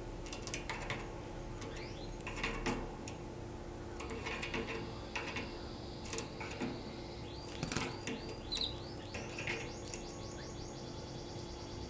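Domestic canary singing in short chirps and quick rolling trills, with scattered sharp clicks. A steady low hum runs underneath.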